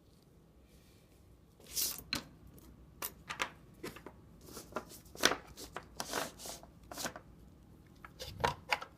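Small metal parts of a Leibinger letterpress numbering machine clicking, scraping and rattling as it is handled and worked on. The irregular clicks begin about a second and a half in, with the sharpest a little past the middle.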